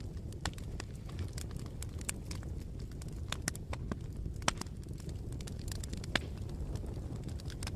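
Bonfire burning: irregular crackles and pops of the burning wood over a low steady rumble of the flames, with a sharper pop about four and a half seconds in and another about six seconds in.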